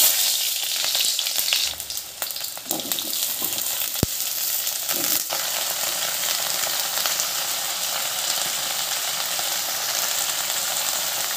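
Onion, then okra and potato, sizzling in hot oil in a kadai (wok), with a loud sizzle that starts suddenly as the onion goes in and holds steady while the vegetables are stirred with a spoon. A single sharp tap about four seconds in.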